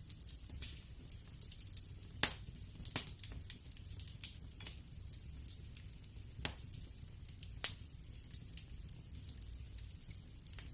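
Wood fire burning in a fireplace, crackling with irregular sharp pops and snaps over a low steady rumble. The loudest pop comes about two seconds in.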